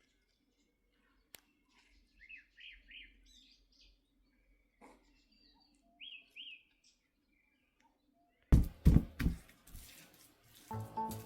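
A small bird chirping in short rising-and-falling notes, a run of four and later a pair. About eight and a half seconds in, a few loud thumps, the loudest sound here, and music begins near the end.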